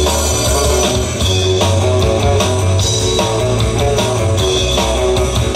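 Rock band playing an instrumental passage with no vocals, led by guitar with bass guitar underneath.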